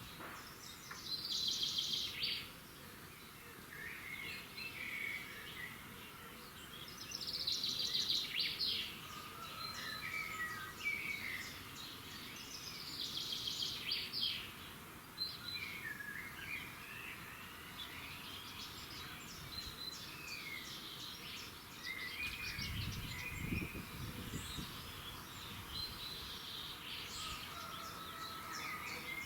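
Several songbirds singing in a dawn chorus, one of them repeating a bright, rapid phrase about every six seconds over scattered chirps from others. A brief low rumble comes in a little before the end.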